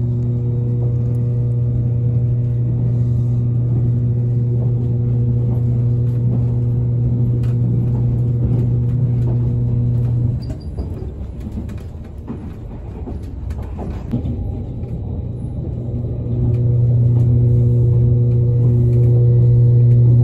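JR Kyushu 787 series electric train in motion, heard from inside the car: running rumble under a steady low electrical hum. The hum cuts out about halfway through, leaving quieter track noise, and comes back louder near the end.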